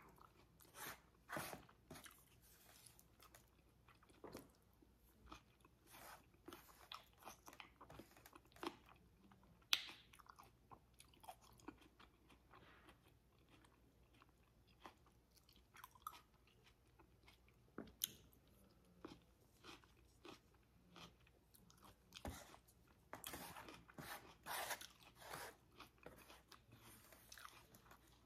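Quiet chewing and mouth sounds of a person eating salad, with a light crunch, in irregular short bursts and a few sharper clicks.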